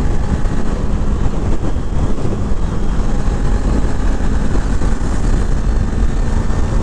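2021 Kawasaki Z400's parallel-twin engine running steadily while riding, with heavy wind rush over the microphone.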